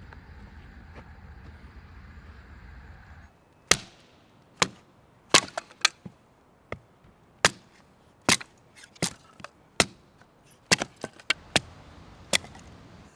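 Firewood being chopped: a run of sharp, irregular chopping strikes, about one or two a second. Before it, a steady low rumble cuts off suddenly about three seconds in.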